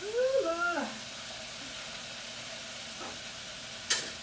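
Chicken wings deep-frying in hot oil: a steady sizzle. A short voice sound rising then falling in pitch in the first second, and one sharp click near the end.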